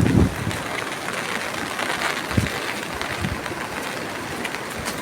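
Steady hiss of rain falling, with wind thumping on the microphone a few times.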